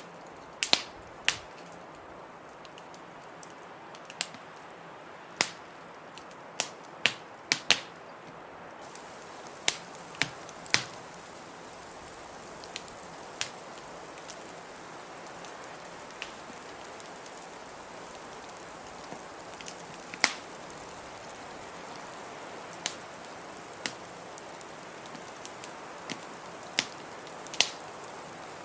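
Wood fire crackling in a fireplace: irregular sharp pops and snaps, some in quick pairs, over a steady hiss.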